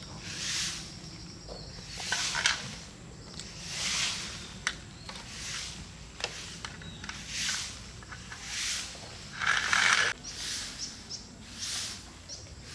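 Dry rice stalks rustling in a steady rhythm of short swishes, about one a second, as from hand harvesting work.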